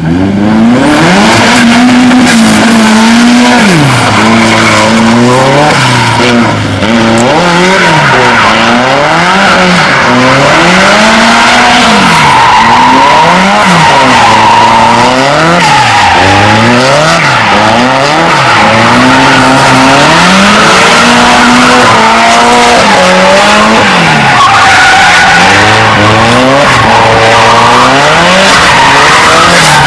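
Drift car engine sound revving up and falling back over and over, about once a second, with tyre squeal.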